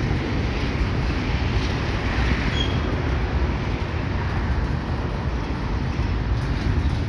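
Kansas City Southern freight train rolling past with a steady low rumble of wheels on rails. A faint brief squeak comes a few seconds in.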